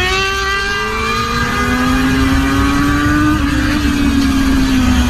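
Motorcycle engine held at high revs, its pitch climbing slowly for about three seconds and then easing back down, over a steady low rumble.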